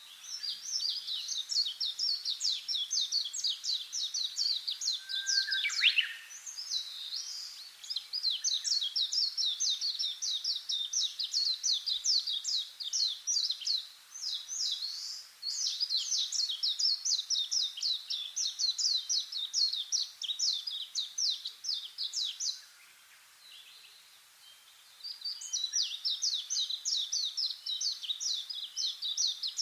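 Rapid, high-pitched chirps repeated in long runs of several seconds, broken by short pauses, with a single downward-sliding whistle about six seconds in.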